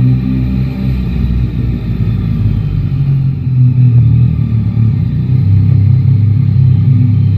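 Yamaha Tracer 9 GT's three-cylinder engine running at low revs. The engine note dips for a moment, then rises and grows louder about four seconds in as the bike pulls away.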